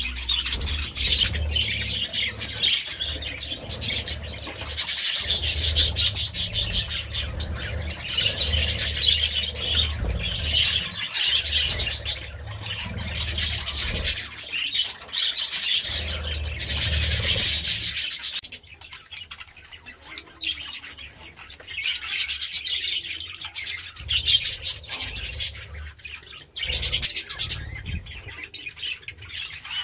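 Budgerigars chattering and warbling in a fast, busy stream of chirps, with occasional squawks. A low rumble runs underneath and stops about two-thirds of the way through.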